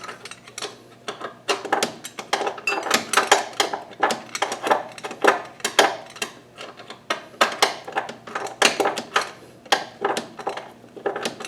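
Metal hand tools clinking and tapping against engine brackets and bolts: quick, irregular metallic clicks, several a second.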